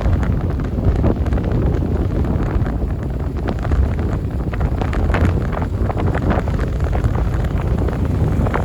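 Lifted 2007 Chevy Silverado pickup driving through deep snow: a steady low engine rumble under heavy wind buffeting on the microphone, with scattered short ticks.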